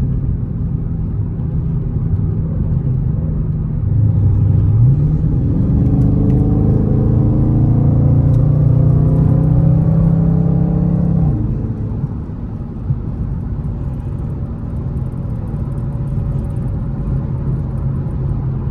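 Dodge Charger Scat Pack's 6.4-litre 392 HEMI V8 under acceleration: its note climbs from about four seconds in, stays loud and high, then falls back to a steady cruising drone at about eleven seconds as the throttle is lifted.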